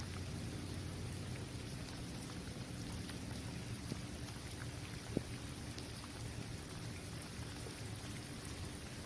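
Steady rain falling on a basketball court: a dense hiss of drops with scattered individual drop ticks, one sharper than the rest about five seconds in.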